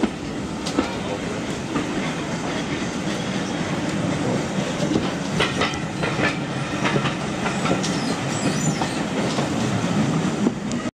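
Preserved-railway passenger carriage running along the line, heard from aboard: a steady rumble with the clickety-clack of wheels over rail joints, the sharp clicks bunching about halfway through.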